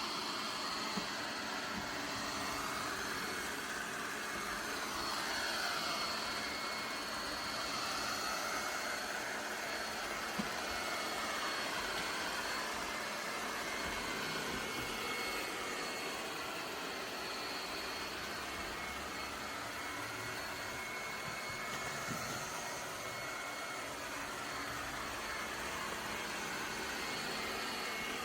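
Laresar Clean L6 Nex robot vacuum running, a steady motor whir and hiss with a thin high whine whose pitch wavers slightly, and one or two faint clicks.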